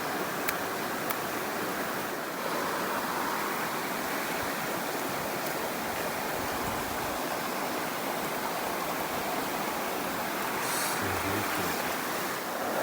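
Mountain stream water rushing steadily over rocks, with two sharp clicks in the first second or so.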